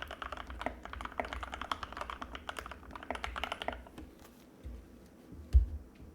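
Anne Pro 2 mechanical keyboard with Gateron Red linear switches being typed on in fast, continuous keystrokes. The typing stops about two-thirds of the way in. A few stray clicks and one dull low thump follow near the end.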